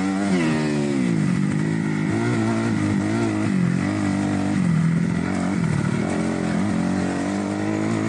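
2008 Kawasaki KX250F's single-cylinder four-stroke engine being ridden off-road, its revs dropping about half a second in, then rising and falling again and again with the throttle.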